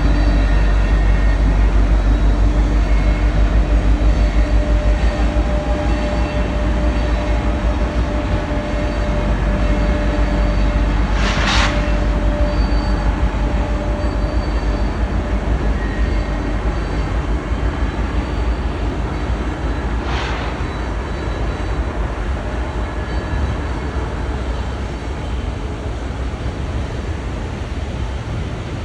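Train rolling past with a steady low rumble that slowly fades, broken by two short hisses about eleven and twenty seconds in.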